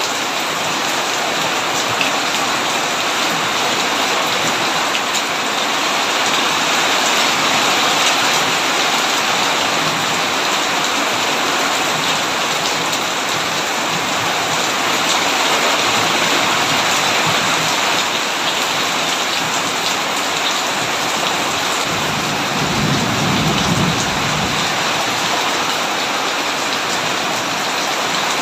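Heavy, steady rain beating on a tin roof. About three-quarters of the way through comes a brief low rumble of distant thunder.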